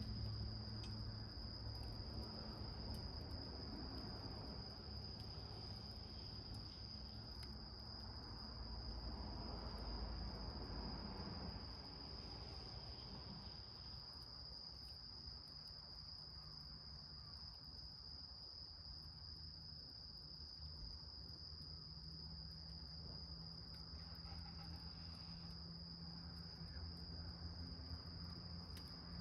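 Crickets trilling, one steady high unbroken tone, with faint scattered crackles from a small wood fire burning in a can.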